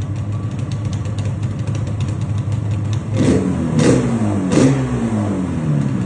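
Yamaha RD350's two-stroke parallel-twin engine idling through its exhaust, then blipped three times in quick succession about three seconds in, each rev rising and falling before it settles back to idle.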